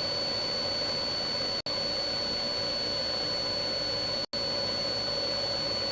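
Steady turbine and rotor drone of a police helicopter heard inside the cabin through the crew's headset audio, cutting out briefly twice.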